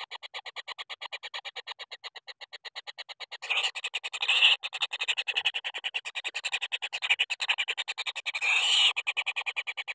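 A rapid, evenly pulsing animal call, about a dozen pulses a second, that grows louder about a third of the way in and swells twice more.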